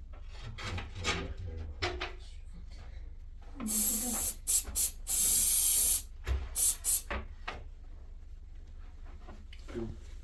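A series of loud hissing spray bursts: one about a second long, two short ones, a longer burst of about a second, then three quick short ones. A low hum runs underneath.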